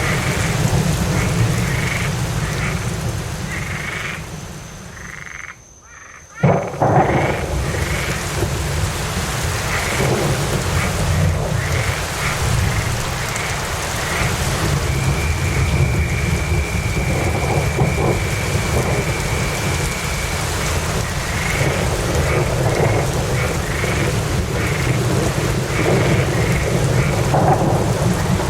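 Steady rain with a low rumble of thunder, with short calls repeating a couple of times a second over the top. About six seconds in, the sound fades down briefly, then cuts back in suddenly.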